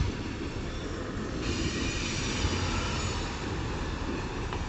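Kiamichi Railroad diesel locomotive moving slowly during a switching move: a steady low rumble, with faint wheel squeal dying away in the first second or so.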